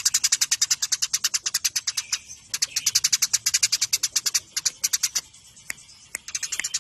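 Eurasian tree sparrows chattering in a fast run of short, sharp chirps, about ten a second: the rapid 'fighting' chatter of burung gereja. The run breaks briefly around two seconds in and thins to scattered chirps past the five-second mark before picking up again.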